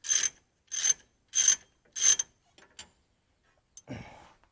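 Ratchet wrench clicking in four quick strokes about two-thirds of a second apart, backing out a rear hub bearing bolt. A few light clicks and a brief rustle follow near the end.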